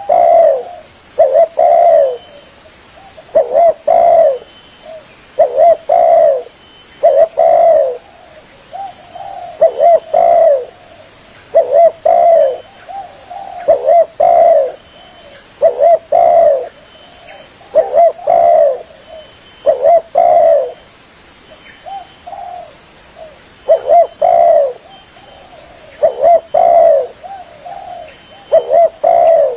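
Spotted dove (tekukur) cooing: a loud phrase of a few hoarse coos repeated about every two seconds.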